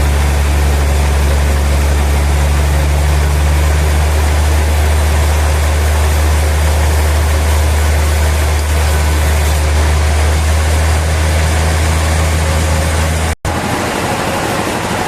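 Sawmill machinery running steadily: a deep engine hum with a broad mechanical noise over it. Near the end the sound drops out for an instant, and afterwards the deep hum is gone, leaving only the steady noise.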